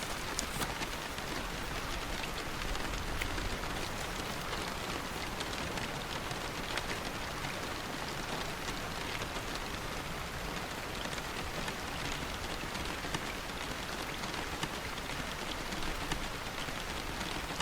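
Steady rainfall with many small drop ticks scattered through it.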